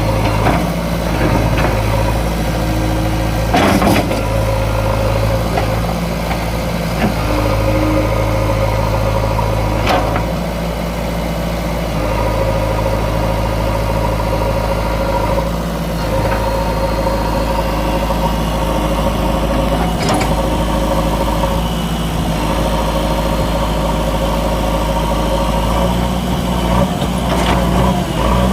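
Diesel engine of a JCB 3DX backhoe loader running steadily, its note shifting slightly as it works, with a few sharp knocks scattered through.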